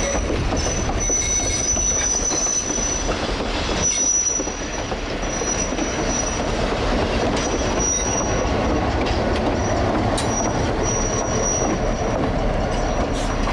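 Railroad cars rolling on the track, with a steady rumble and a high-pitched steel wheel squeal that keeps breaking off and coming back.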